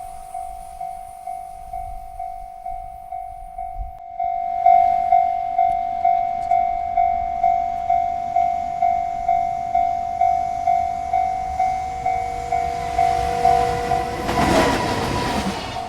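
Railroad crossing bell dinging steadily, about two and a half strikes a second, jumping louder about four seconds in. Near the end a train horn sounds and the noise of the approaching freight train swells under the bell.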